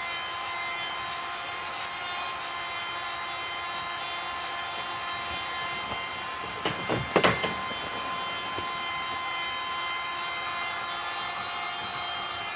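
Electric heat gun running with a steady whine, heating the barrel plastic at a seam. About seven seconds in, a short cluster of a few sharp knocks.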